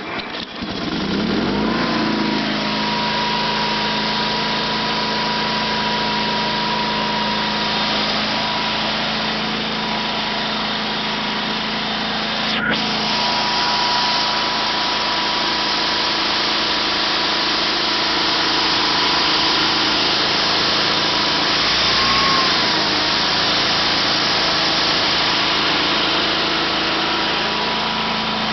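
A 1974 Sears Suburban SS/16's 16 hp Onan opposed-twin engine catches and revs up over the first couple of seconds, then runs steadily at full throttle.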